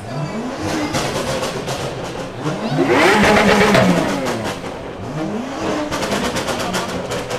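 A car engine being revved hard several times, each rev rising and then falling in pitch, the loudest about three seconds in.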